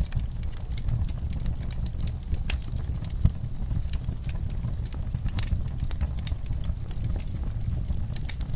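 Wood fire burning in a fireplace: a steady low rumble of flames with irregular crackles and snaps, one louder pop about three seconds in.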